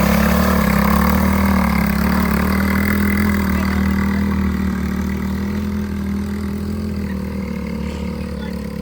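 ATV engine running at a steady speed, slowly growing quieter over the few seconds.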